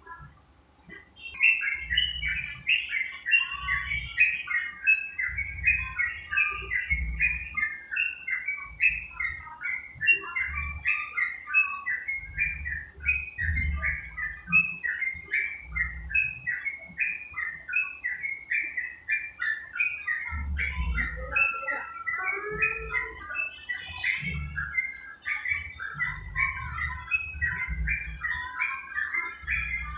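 Yellow-vented bulbul (trucuk) singing a rapid, unbroken string of chirping notes, with dull low thumps underneath at intervals.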